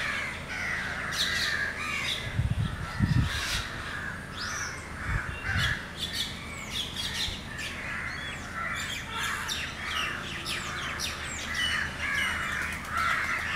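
A chorus of wild birds calling and chirping, many overlapping short calls. There are a few low bumps about two to three seconds in and again around five seconds.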